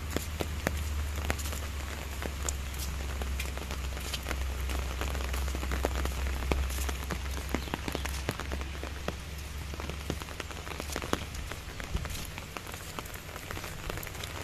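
Rain falling on paving, gazebo roofs and foliage: a steady hiss dotted with the patter of individual drops. A low rumble runs under it and stops about two-thirds of the way through.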